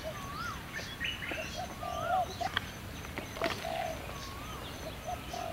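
Birds calling: short rising-and-falling whistled notes and low buzzy cooing notes, repeated every second or so. Two sharp clicks come about halfway through.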